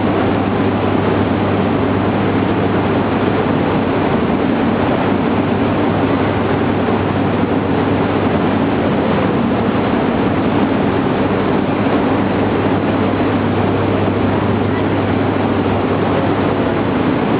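Steady, even hum and noise of Shinkansen trainsets standing at the platform during coupling, with a constant low drone and no clunks.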